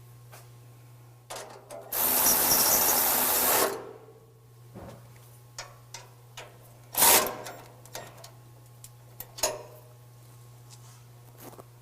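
A power tool runs for under two seconds, tightening a bumper mounting bolt, amid scattered metallic clicks and knocks of tools on the bumper brackets, with one louder knock about seven seconds in. A steady low hum runs underneath.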